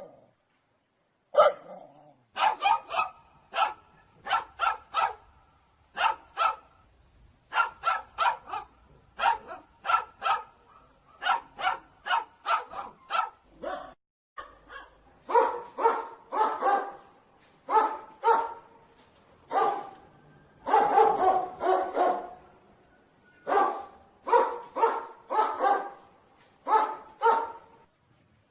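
A dog barking repeatedly in quick runs of two to five sharp barks, with brief pauses between runs.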